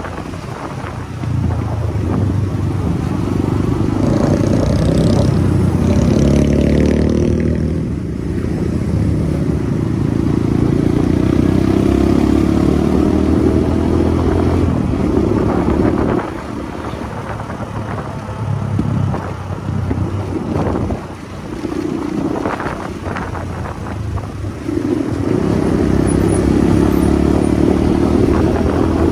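Motorcycle engine under way, its pitch climbing under throttle in the first several seconds, then easing off and picking up a few times, and pulling strongly again near the end.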